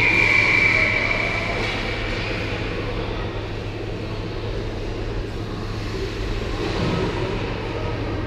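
Ice hockey rink ambience: a steady low hum under a haze of crowd and rink noise, with a high, steady referee's whistle for about two seconds at the start.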